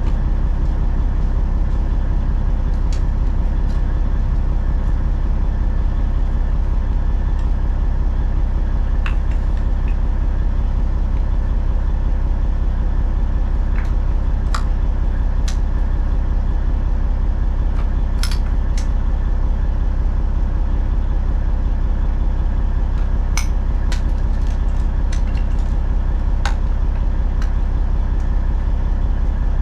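Dump truck engine running steadily, a low, even drone, with scattered sharp clicks and rattles over it.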